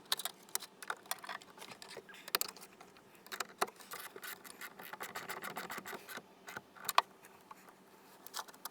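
Irregular clicks, taps and scraping of hand tools and metal parts being handled while the car battery is reconnected.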